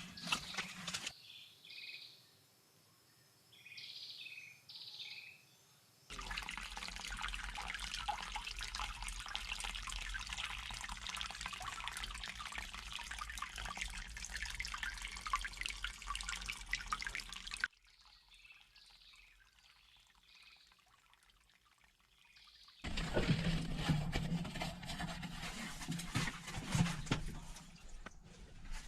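Water pouring and splashing in long noisy stretches, broken by quieter gaps in which short bird calls are heard.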